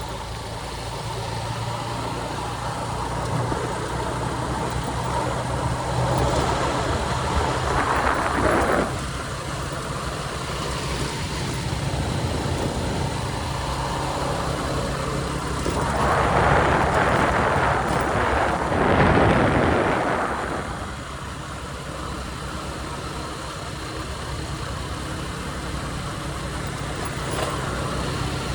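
Motorcycle engine running steadily with a low hum. There is a brief rush of noise about eight seconds in and a louder, longer one a little past halfway, such as traffic going by.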